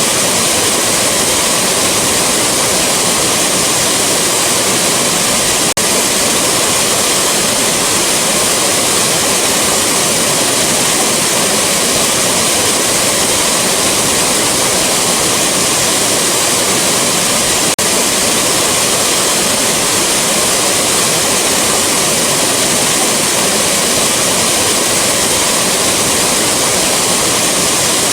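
Rushing waterfall: a loud, steady, unbroken roar of falling water, with two faint clicks about twelve seconds apart.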